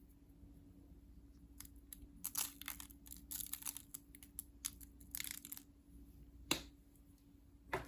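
Crinkling and tearing of wrapping, handled in short crackly bursts, then two sharp knocks near the end.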